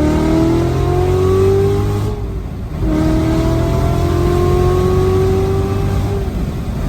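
A tuned, high-powered car's engine pulling hard under full throttle, heard from inside the cabin. The revs climb, drop sharply at an upshift about two seconds in, then climb again through the next gear and ease off near the end.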